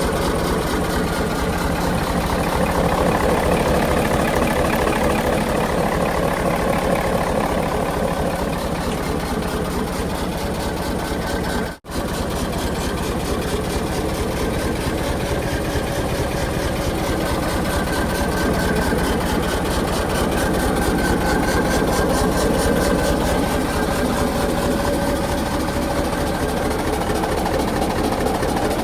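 Mitsubishi Fuso 8DC9 twin-turbo V8 diesel engine idling steadily, with a momentary drop-out about twelve seconds in.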